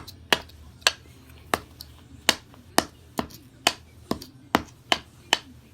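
Hammer blows on a nail into wood, a steady series of sharp knocks about two a second.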